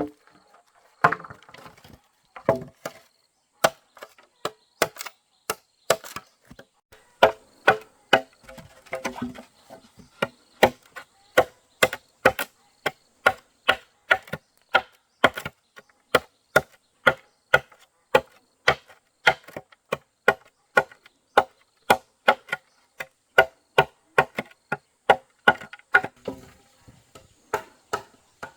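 Tool striking wood again and again, in a steady rhythm of about two blows a second, sharp and knocking, with a few lighter irregular knocks mixed in.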